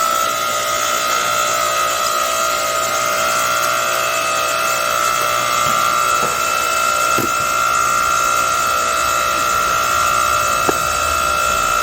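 Hydraulic log splitter running, its motor and pump giving a steady high whine, with a few faint cracks as firewood is split.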